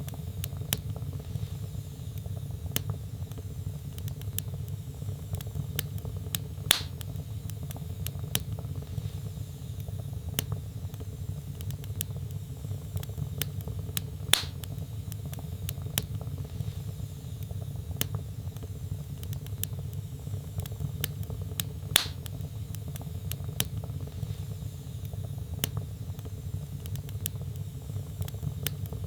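Log fire burning in a fireplace: a steady low rumble of flames with frequent small crackles and a louder sharp pop about every seven or eight seconds.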